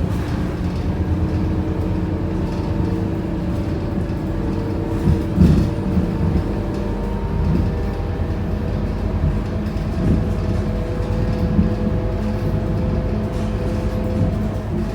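Scania K230UB Euro 5 city bus heard from on board while under way: a steady engine and driveline rumble with a whine whose pitch climbs slowly through the second half. A single thump about five and a half seconds in.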